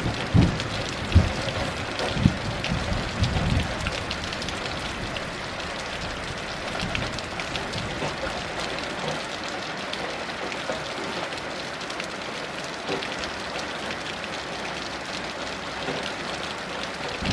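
Heavy rain falling steadily. A low, uneven thunder rumble fades out over the first few seconds.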